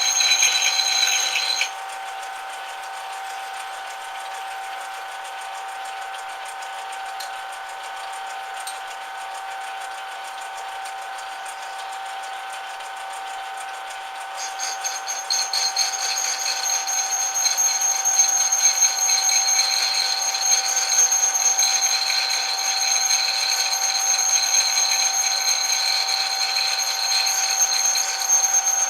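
Metal lathe running with a steady mechanical whine. A louder, higher-pitched whine on top cuts out about two seconds in and comes back about halfway through.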